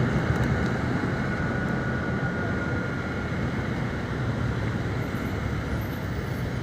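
Steady low rumble of road traffic and running vehicle engines, with a faint high whine through the first few seconds.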